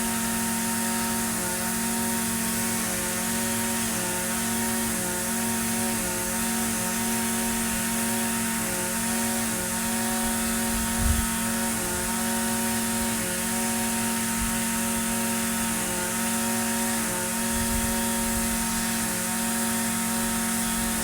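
Echo SRM-2620 string trimmer's small two-stroke engine running steadily at a constant speed, with one brief low thump a little past the middle.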